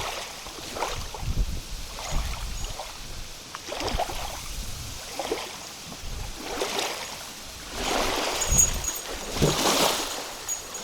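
Small waves lapping and slapping irregularly against the side of a fishing boat, with wind buffeting the microphone in a low, uneven rumble.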